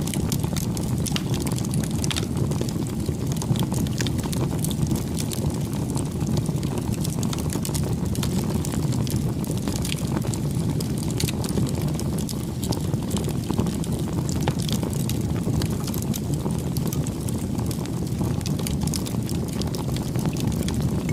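Campfire burning: a steady low rush of flame with frequent sharp crackles and pops from the burning wood.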